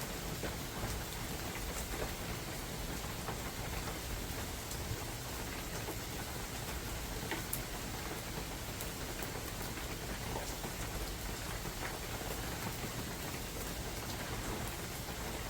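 Steady spring rain falling in a forest, with scattered individual drops ticking close by.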